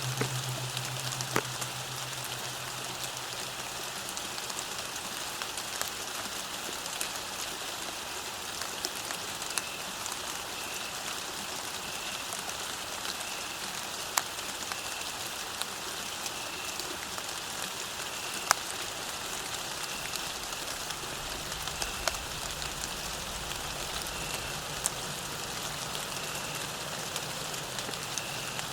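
Steady rain falling on a path, an even hiss with scattered sharp drop clicks. From about a third of the way in, a faint short high chirp repeats roughly once a second.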